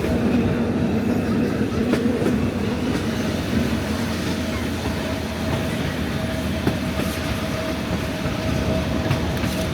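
Metre-gauge train running along the track: a steady rumble of wheels on rail, with a faint steady whine joining about three seconds in and an occasional click.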